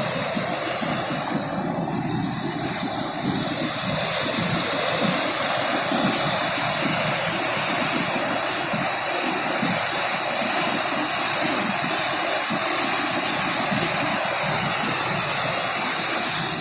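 Swollen floodwater rushing in a river in high flow: a steady, even rush with no break, its hiss growing stronger about six seconds in.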